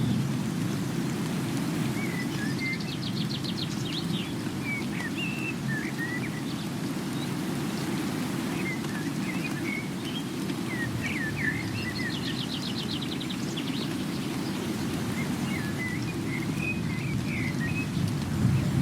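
Steady rain with a low rushing rumble, with songbirds chirping over it and a rapid high trill twice.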